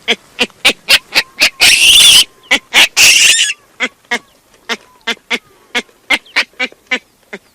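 Baboon calling: a fast run of short grunting barks, about three a second, broken by two longer, loud harsh screams about two and three seconds in.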